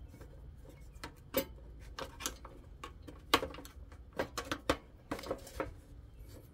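Screwdriver prying at an electric stove's control knob and switch: irregular small metal clicks, scrapes and taps, with a few sharper knocks.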